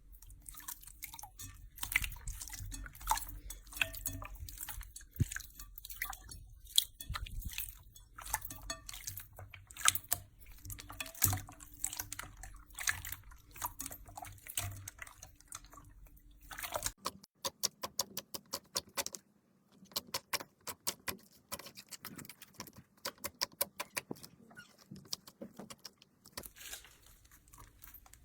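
Slime being squeezed and worked by hand: a dense run of small sticky clicks and pops, turning into a faster, more even run of clicks a little past halfway.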